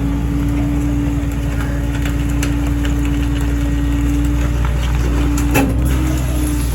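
Kenworth rear-loader garbage truck's diesel engine running steadily under the load of the Heil packer's hydraulics, a steady whine over its rumble. A few sharp cracks come near the end, and the whine drops and shifts slightly higher about five seconds in.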